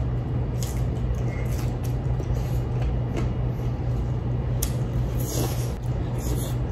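Close-up chewing of a raw napa cabbage leaf, soft irregular crunches over a steady low hum, with one sharper click past the middle.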